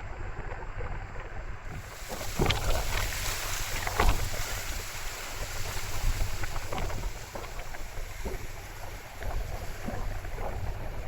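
Strong gusting wind blowing over the microphone, with a heavy low rumble and irregular sharp snaps. The wind turns louder and hissier about two seconds in.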